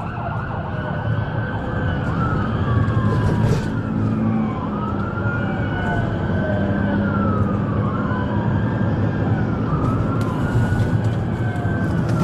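Police sirens on pursuing cruisers wailing in slow rises and falls every couple of seconds, with more than one siren overlapping out of step, over a steady engine and road rumble.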